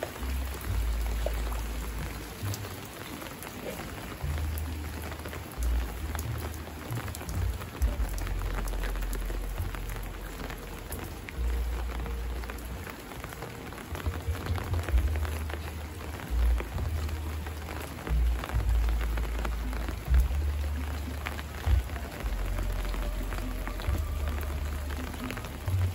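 Steady rain falling, a dense hiss dotted with small drop ticks, with frequent low rumbles on the microphone coming and going.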